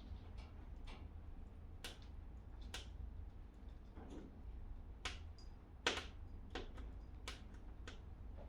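Wood fire crackling in a fireplace: scattered sharp snaps and pops, about seven of them and the strongest two around the middle, over a faint steady low hum.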